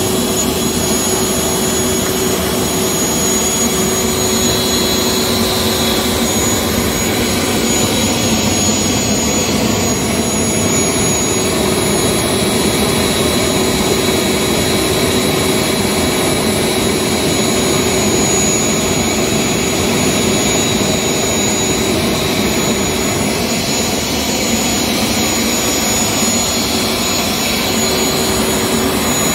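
Homemade waste-oil stove burning under forced air from its electric air blower: a steady, loud rushing noise with a constant motor hum and a thin high whine.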